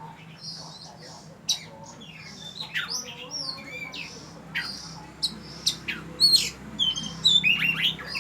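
Oriental magpie-robin singing: a varied run of clear whistled notes and quick downward-sweeping notes mixed with short hissy notes, growing busier and louder in the second half. A faint steady low hum runs beneath.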